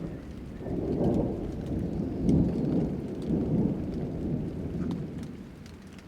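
A roll of thunder over rain: a low rumble that swells about a second in and fades away near the end, with scattered raindrop ticks.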